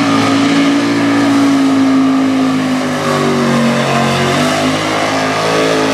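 Mega truck's engine running hard at high revs, with the pitch held steady, sagging slightly a few seconds in and then climbing again.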